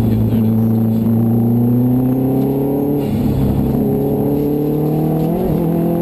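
Subaru WRX STI's turbocharged flat-four engine heard from inside the cabin, pulling under acceleration with its note climbing slowly, and a short break in pitch about three seconds in and again about five and a half seconds in.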